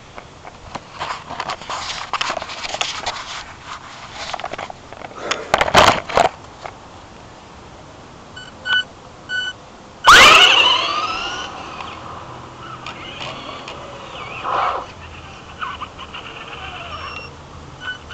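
Traxxas Slash RC truck's electric motor whining in short bursts as it is driven. About ten seconds in it passes close and loud, the whine falling in pitch as it goes by. A few short beeps sound just before.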